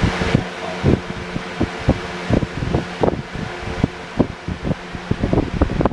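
Lakewood 101 brace-blade box fan running, a steady motor hum under the rush of its airflow, with irregular low thumps.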